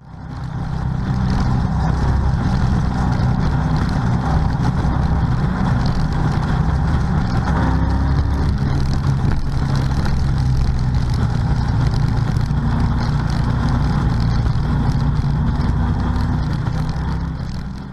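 Stock C6 Corvette Grand Sport's 6.2-litre V8 running hard at track speed, a steady loud engine note under road and wind noise. It fades in at the start and fades out near the end.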